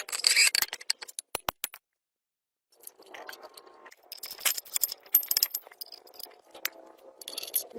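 Scraping and rattling from hand work on metal, with sharp clicks. It cuts out completely for about a second near the start.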